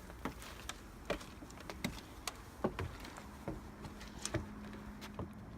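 Footsteps of people walking on a trail, heard as irregular knocks and clicks, with a faint steady hum in the second half.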